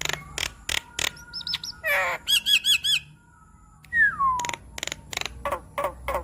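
Javan myna (jalak kebo) singing a varied, chattering song: sharp clicks and squawks, a quick run of about six repeated rising-and-falling notes in the middle, and a whistle sliding down about four seconds in, followed by rapid clicking notes.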